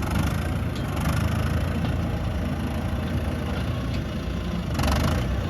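Heavy earthmoving machine's diesel engine running steadily, growing louder with a rush of noise near the end.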